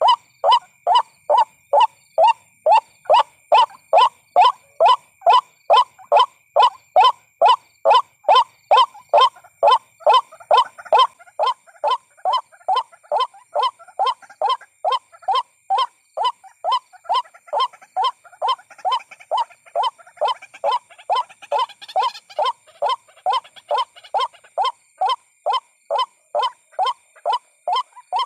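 White-breasted waterhen calling: a fast, steady, unbroken series of identical honking notes, about two and a half a second. This is the call used as a lure to draw waterhens in.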